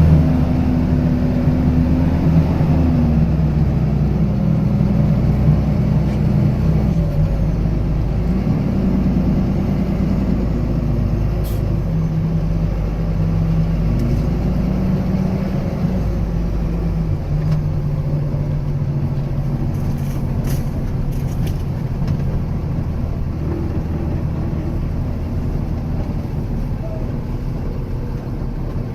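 A 26-foot box moving truck's engine running under load at low speed, its note stepping and gliding up and down several times with gear changes and throttle, over a steady low rumble. A few sharp knocks come about a third of the way in and again about two-thirds of the way in.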